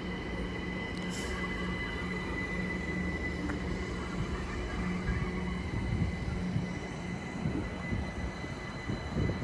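London Overground Class 378 electric multiple unit running into the platform, a steady low electric hum and rumble with a thin high whine over it.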